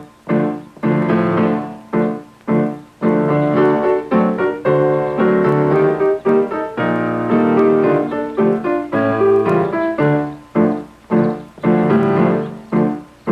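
Piano playing an instrumental passage of struck chords in short phrases with brief breaks between them.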